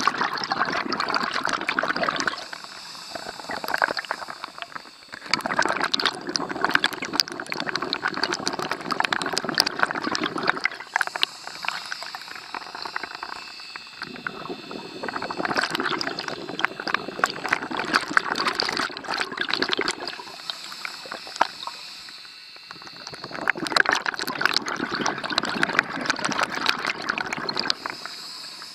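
Scuba diver breathing underwater through a regulator: four long bubbling exhalations with quieter pauses between them.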